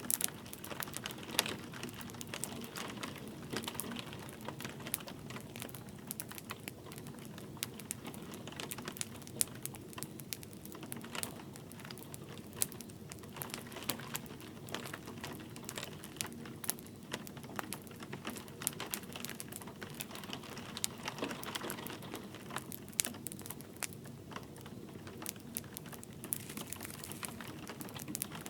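Wood fire crackling with many irregular sharp pops and snaps, over a soft steady hiss of light rain.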